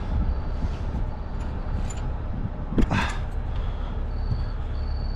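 A truck's engine idling with a steady low rumble, with a single sharp clank a little under three seconds in and a faint high whine joining about four seconds in.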